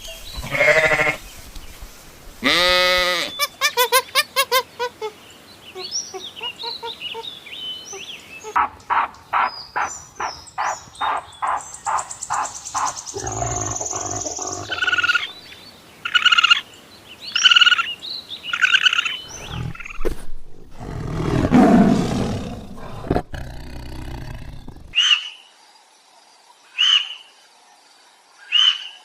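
A run of different animal calls and cries, one after another. Near the end, a bird gives short, high chirps about every second and a half.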